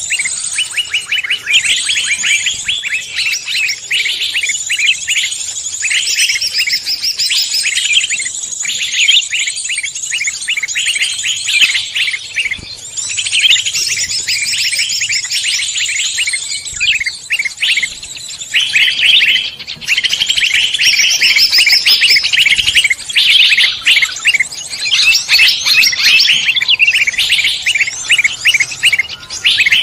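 A dense chorus of songbirds chirping and singing over one another, rapid trills and repeated chirps without a break, from a bird-lure (pikat) recording meant to draw in wild songbirds. It grows a little louder and fuller from about two-thirds of the way in.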